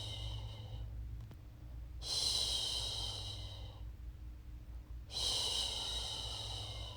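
A woman's voice shushing a baby to sleep with long, drawn-out "shhh" sounds. Each hiss lasts about two seconds and repeats roughly every three seconds.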